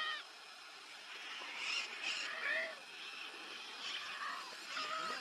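A flock of Lear's macaws calling: several separate calls, each with a curved pitch, coming about every second or two.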